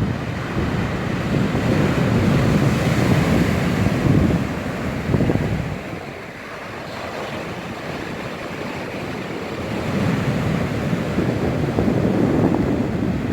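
Storm surf breaking and washing on the shore, with strong wind buffeting the microphone. The surf is loud in the first half, eases about six seconds in, then builds again near the end.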